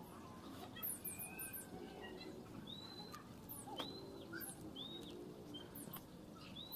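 Small birds calling: groups of very high, quick chirps and a few short whistled notes that rise and then hold, repeated throughout.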